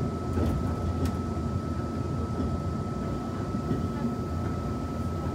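Interior running noise of a Taiwan Railways Tze-Chiang push-pull passenger car: a steady low rumble from the wheels and track, with a faint steady high whine and a couple of light clicks about a second in.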